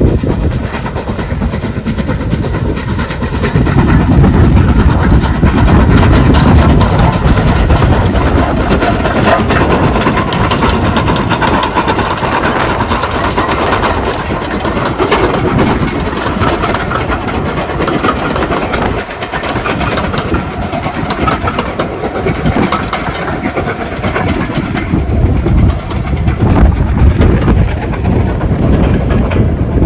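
A heritage steam train running close by: a steady, loud rumble with its wheels clicking over the rail joints.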